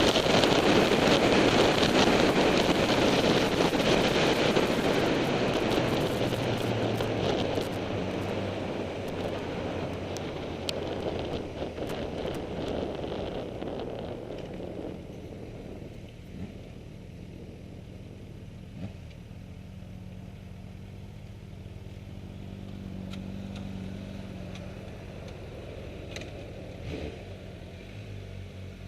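Wind and road noise rushing over an onboard camera on a sport motorcycle, dying away over about fifteen seconds as the bike slows. This leaves a steady low engine hum, with the engine idling or barely pulling.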